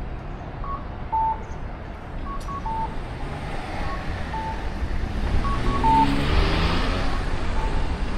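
A repeating electronic beep alternating between two notes, over street traffic noise; a motor vehicle passes close by, its engine sound swelling to the loudest point near the end.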